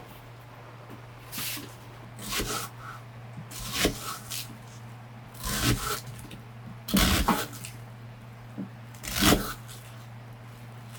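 Rustling and soft knocks of things being handled, about six short bouts spread irregularly, over a steady low hum.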